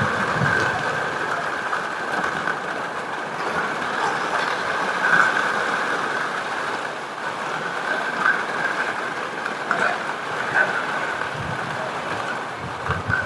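Heavy rain falling steadily, mixed with the scattered crackle of a wood fire.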